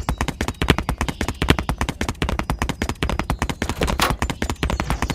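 A rapid, slightly irregular clatter of sharp knocks, about ten a second, with one stronger knock about four seconds in.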